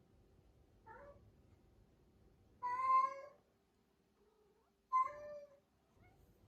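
Domestic cat meowing three times: a short faint meow about a second in, then two louder, longer meows about two seconds apart.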